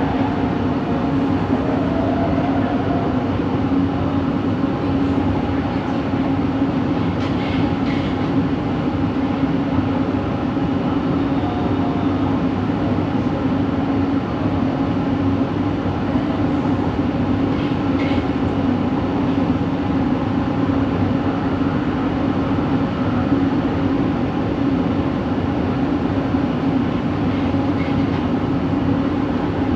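Inside a light-rail train coach while it runs: a steady rumbling noise with a strong, constant low drone, the unusual motor noise coming from this coach of set 70. A few faint clicks occur about 7 and 18 seconds in.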